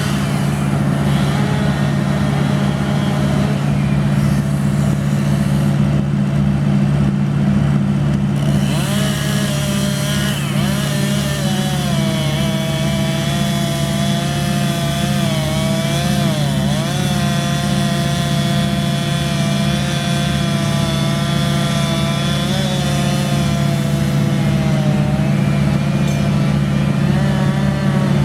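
Tree-service machinery with a large engine running steadily, and a whining tone above it that dips and rises in pitch about halfway through.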